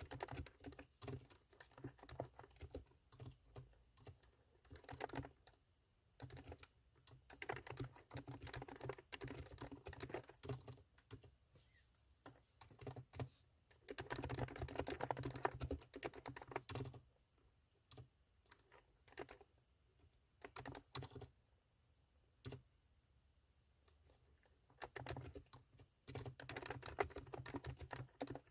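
Typing on a COX retro keyboard with 35 g tactile switches: runs of quick key clicks that come in bursts, broken by pauses of a few seconds.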